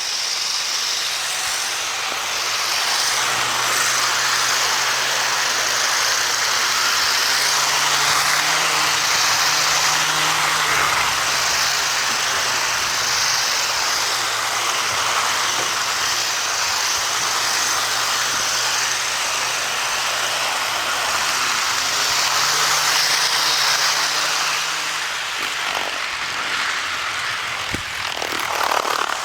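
HO scale model train running on the layout track: a steady motor hum with rolling noise from the wheels and cars, the hum's pitch rising and falling a little as the train's speed changes.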